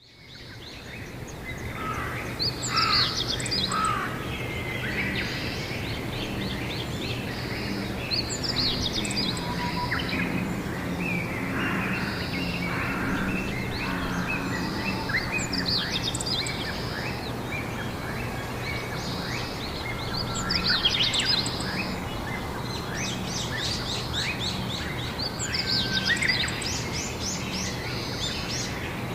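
Songbird singing outdoors in spring, repeating a short phrase of quick high notes about every five or six seconds over a steady low hum and background noise. The sound fades in at the start.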